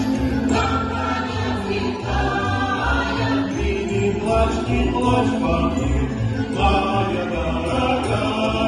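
Cossack song ensemble singing a folk song in chorus over an instrumental accompaniment with a regular bass beat.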